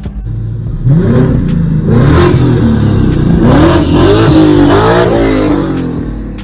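Twin-turbo 5.0 V8 Mustang accelerating hard, the engine note climbing through several gears with a drop in pitch at each upshift.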